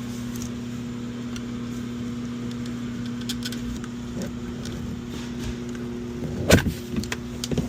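Small clicks and taps from work on a car's plastic door trim over a steady low hum, with one sharper, louder knock about six and a half seconds in.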